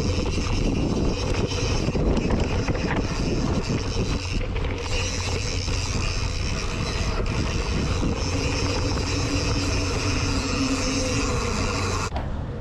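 Mountain bike riding fast down a dirt trail: wind buffeting the action camera's microphone over the rumble and rattle of the bike on rough ground. The noise drops off sharply near the end.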